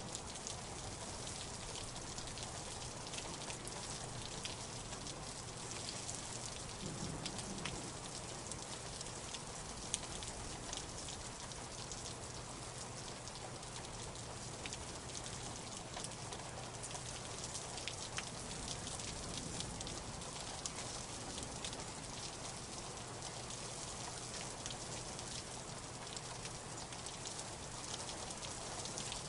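Steady rain, with a constant hiss and many separate drops ticking through it.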